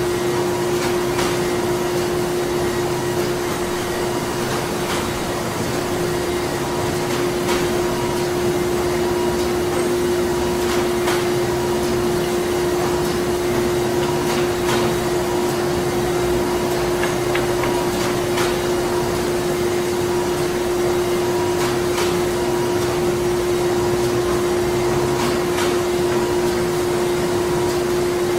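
Printing plant ambience: machinery running steadily, with a constant droning hum and a light scatter of irregular clicks and knocks.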